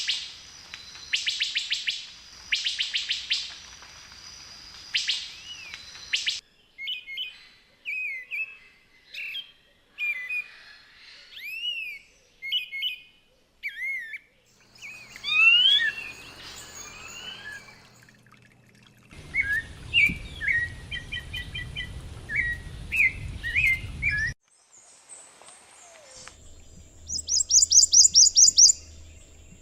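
Calls and songs of several different bird species, one short recording after another: first a high trilled phrase repeated about once a second, then varied whistled notes rising and falling, and near the end a fast, loud series of high notes.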